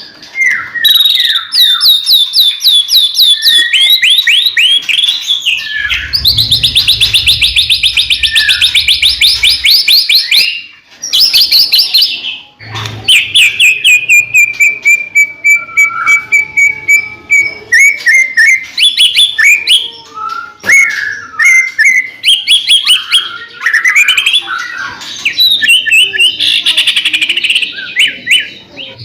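White-rumped shama singing loudly without a break: a fast, varied song of rapid trills and quickly repeated notes, with a long, slightly falling whistle about halfway through.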